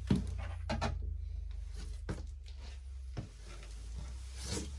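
Hands handling parts at a gas water heater's burner access: a few scattered light clicks and knocks over a steady low hum.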